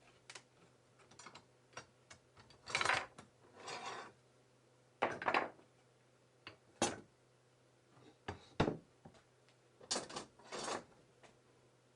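Irregular clicks, knocks and a few short scraping sounds, like small hard objects being handled and set down.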